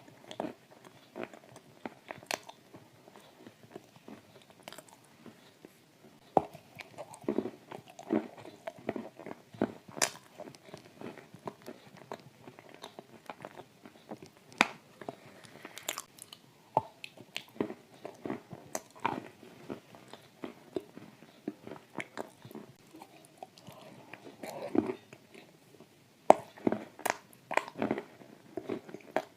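Close-up chewing of dry shortbread cookies coated in thick clay paste: irregular crunching and wet mouth clicks, with a few louder crunches.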